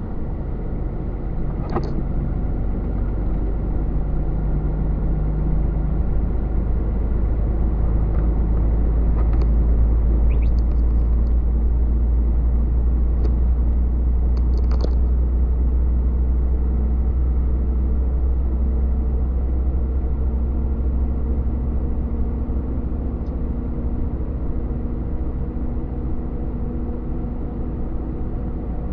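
Truck on the move: a steady low engine drone with road rumble, growing a little louder toward the middle, with a few brief light clicks.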